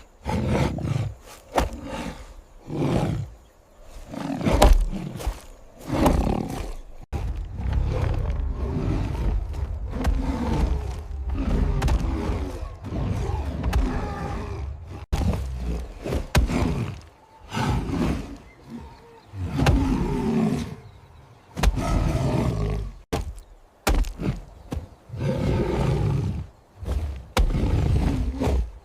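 Big cats roaring and growling over and over, in a long run of separate snarls, each a second or two long, over a deep rumble.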